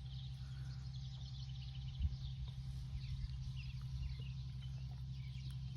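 Outdoor ambience: many faint, short bird chirps over a steady low hum, with a soft bump about two seconds in.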